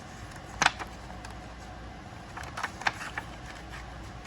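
Paper money and a cash wallet being handled: a few short clicks and rustles, once about half a second in and a small cluster around three seconds in, over a low steady hum.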